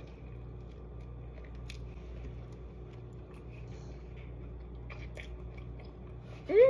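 A person biting into and chewing avocado toast, with faint scattered crunches, over a steady low room hum. Near the end comes a short, rising voiced "mmm".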